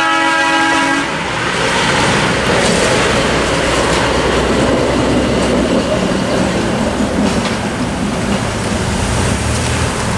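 A train's multi-note horn blast cuts off about a second in, then the train rumbles and clatters over the grade crossing.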